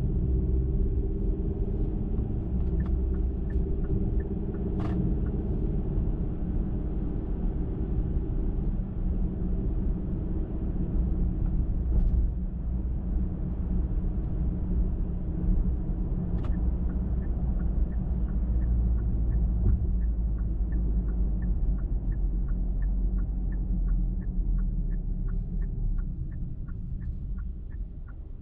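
Car driving on a highway: steady low rumble of tyres and engine. A few sharp clicks stand out, and about two-thirds of the way in a light, even ticking starts, two to three times a second.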